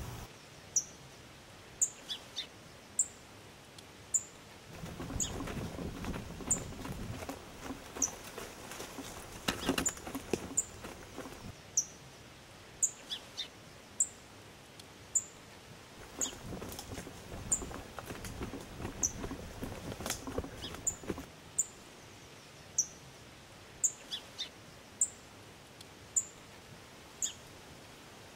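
A bird calling with short, high, falling chirps about once a second, over stretches of rustling in dry leaf litter.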